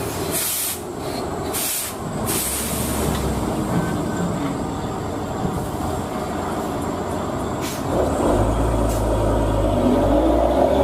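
Heavy truck engine running, with three short air-brake hisses in the first few seconds. A deeper, louder engine note comes in about eight seconds in.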